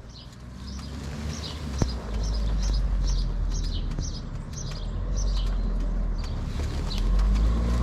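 Small birds chirping: short high notes repeating about twice a second, over a steady low rumble.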